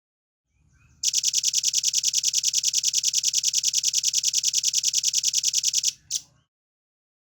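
Velvet-fronted nuthatch giving a fast, even trill of sharp high notes, about ten a second for about five seconds, followed by one single note.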